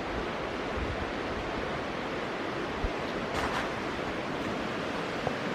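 Steady outdoor rushing noise, with a brief swish about three and a half seconds in.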